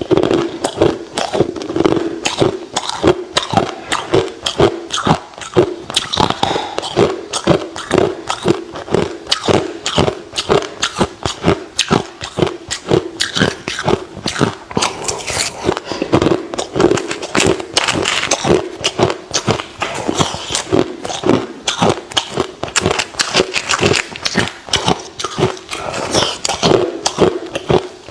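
Close-miked chewing of hard crushed ice: a steady run of sharp crunches, about three or four a second.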